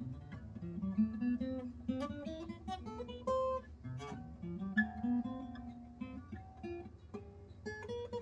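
Acoustic guitar playing a picked melody of single plucked notes and short runs, some notes left ringing.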